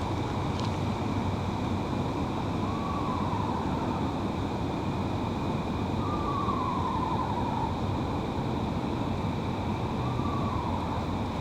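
Eastern screech owl giving soft, descending whinny calls: a short falling whistle, then a longer one of nearly two seconds, then another short one near the end, over a steady background hum.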